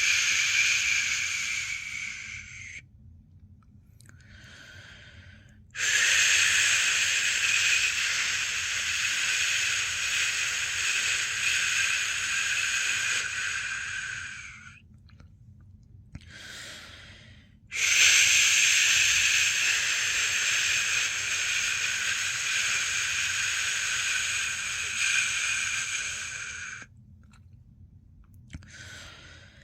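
A person shushing with long, steady "shhh" sounds to lull a newborn to sleep: one fades out about three seconds in, then two more run about nine seconds each. In each short gap between them a much softer breath is heard.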